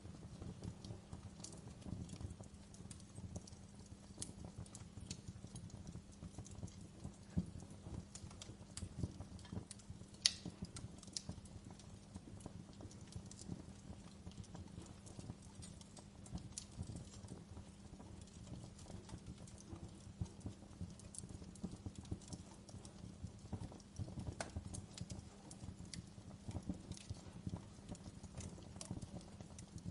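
Wood fire crackling in a fireplace: scattered small pops and snaps over a low steady rumble, with a sharper pop about ten seconds in.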